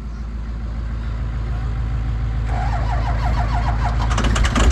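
Ford 6.0 Powerstroke V8 turbo-diesel being cranked on the starter in a hard cold start. A rhythmic ticking comes in about halfway, and near the end the engine starts to catch, with louder, uneven firing.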